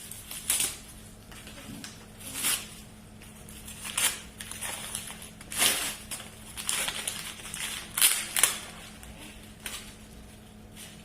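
Gift wrapping paper being torn and crumpled by hand as a present is unwrapped: a string of about eight short, sharp rips and rustles at irregular intervals.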